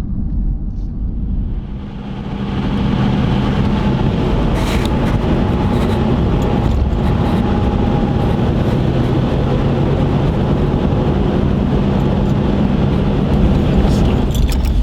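Jeep driving: steady engine drone and road noise that grow louder about two seconds in as it picks up speed, then hold steady.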